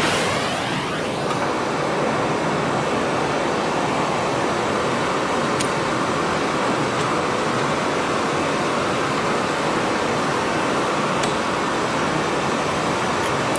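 Gas heating torch flame hissing steadily while heating scrap steel to straighten it, with a couple of faint ticks.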